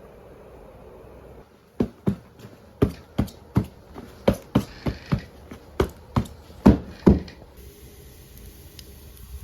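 A quick run of about fifteen sharp knocks, two or three a second and slightly uneven, each with a short ring. Near the end a steady hiss starts.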